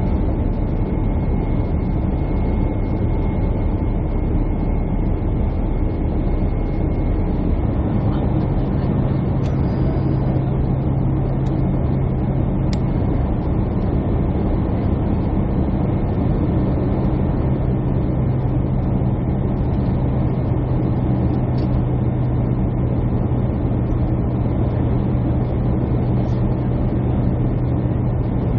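Steady airliner cabin noise: engine and air rush with a steady hum, a deeper hum coming in about eight seconds in.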